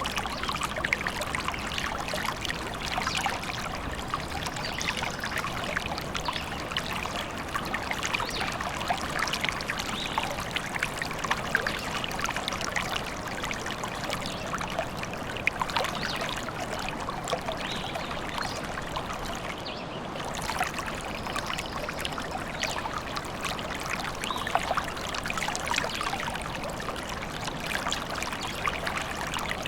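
A small forest stream running over stones: a steady splashing burble made of many small splashes.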